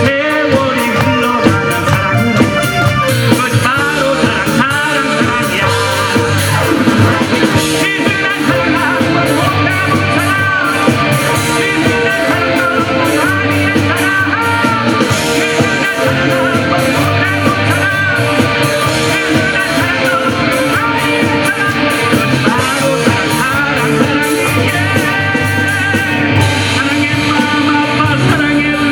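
Rock band playing live through a PA in an instrumental break: a drum kit and bass keep a steady beat while a lead electric guitar plays bending, arching phrases over them.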